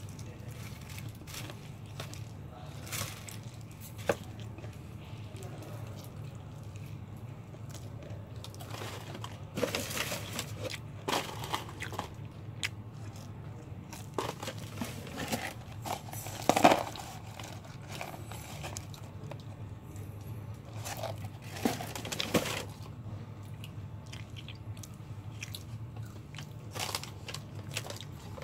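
Close-up eating sounds of crispy KFC fried chicken: irregular crunches and chewing, the loudest crunch just past the middle, over a low steady hum.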